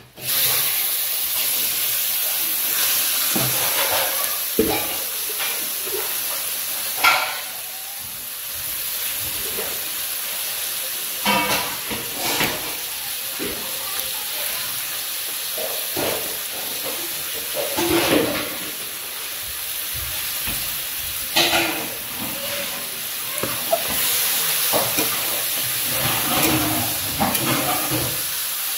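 Raw meat pieces sizzling in hot oil and masala in an aluminium wok, a steady hiss, with a metal spatula scraping and knocking against the pan now and then as they are stirred.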